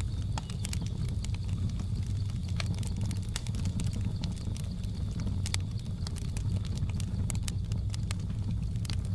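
Wood fire crackling, with irregular sharp pops over a steady low rumble, and a faint steady high drone underneath.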